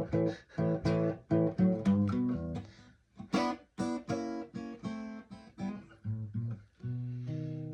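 Guitar playing a 12-bar blues figure in a steady rhythm of short, choppy chords, with a brief break about three seconds in and a chord left ringing near the end.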